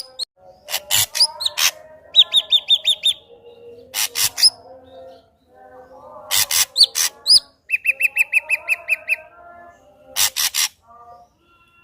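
Ashy drongo singing a varied song. Loud noisy, rasping notes alternate with quick upslurred whistles and fast runs of repeated notes: about six notes a little after two seconds in, and about ten lower ones near eight seconds.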